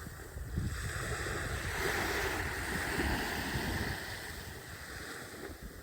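Wind rumbling on the microphone over a steady rush of waves, with no clear calls or tones.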